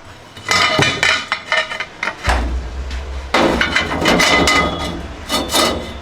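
Workshop knocking and clattering of metal being struck: a quick, uneven run of hammer-like blows with a slight metallic ring, and a low steady hum joining a little over two seconds in.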